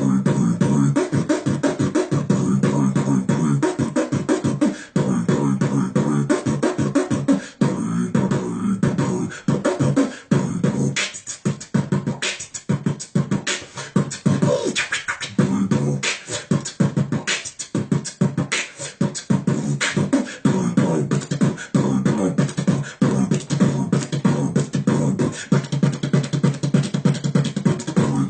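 Beatboxing: mouth-made electronic-style music, a continuous low humming line with rapid clicks and percussive hits layered over it in a fast rhythm.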